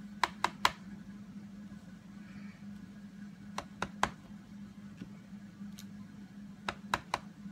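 A stamp being tapped onto an ink pad and pressed onto paper: three groups of three quick, light taps, near the start, about halfway and near the end, over a steady low hum.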